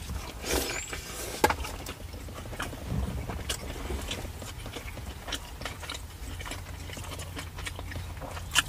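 Close-up eating sounds: two people biting into and chewing a birria smash burger and a shrimp torta, giving irregular wet clicks and smacks. A low steady rumble runs underneath.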